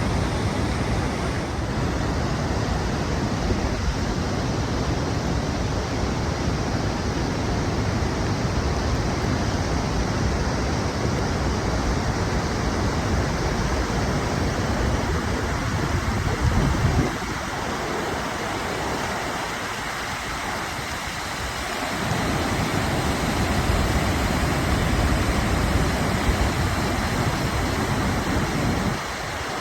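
Steady rushing roar of a large waterfall, with wind buffeting the microphone; the low rumble eases for a few seconds a little past halfway and again near the end.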